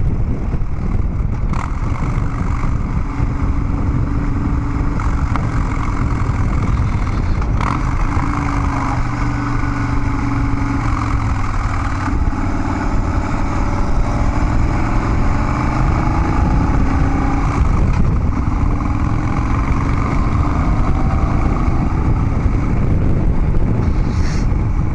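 Harley-Davidson Dyna Street Bob's V-twin engine running through Vance & Hines Big Radius 2-into-2 exhaust pipes while riding. The engine note rises and falls with throttle and gear changes.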